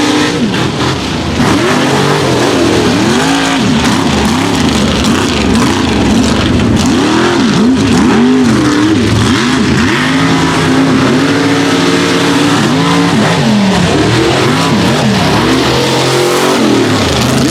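A mega truck's engine revving hard through a mud-racing run, its pitch climbing and dropping over and over as the throttle is worked.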